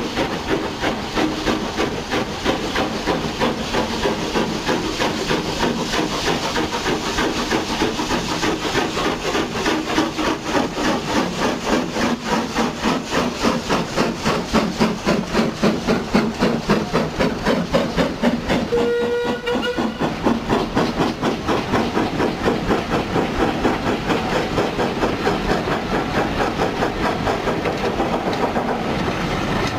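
Steam locomotive running with a steady rhythm of exhaust beats and hiss. A short whistle sounds about two-thirds of the way through.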